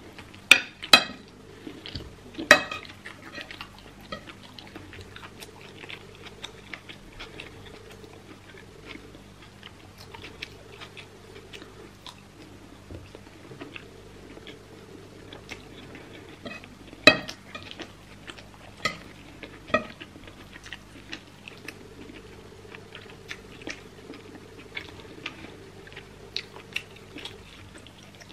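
Close-up mouth sounds of chewing soft rice and beef, with many small wet clicks. A metal spoon clinks sharply against a ceramic plate a few times near the start and once about two-thirds of the way through, over a steady low hum.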